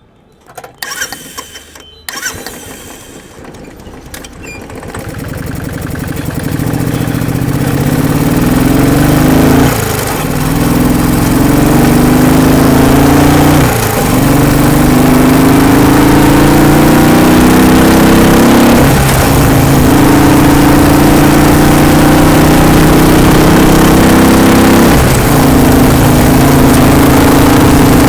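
Royal Enfield single-cylinder motorcycle engine accelerating through the gears: a few clicks at the start, then the engine note builds and climbs in pitch, dropping back at each of four gear changes.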